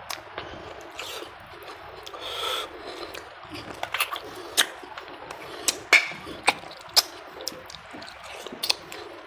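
Close-up eating sounds: wet chewing, sucking and sharp lip smacks as a man bites and gnaws on bony pieces of mutton in curry, with irregular loud smacks clustering in the middle of the stretch.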